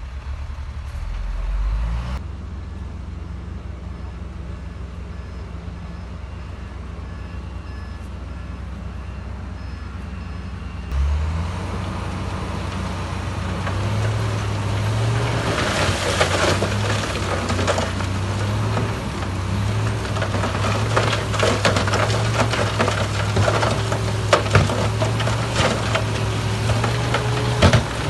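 Heavy diesel earthmoving machinery running under a steady low engine drone, with a faint intermittent high beep in the first part. About eleven seconds in the engine note steps up, and from about halfway on it is joined by a growing rattle and clatter with sharp knocks.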